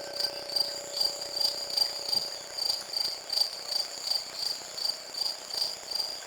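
High, steady insect chirping that pulses about two to three times a second, while a low held tone fades out over the first two seconds.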